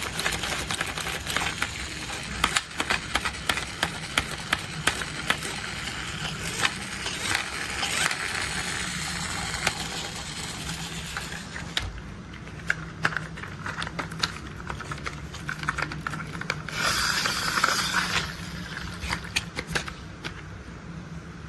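Plastic toy construction vehicles being handled: irregular sharp clicks and rattles of plastic parts, with a short rustling scrape about three quarters of the way through.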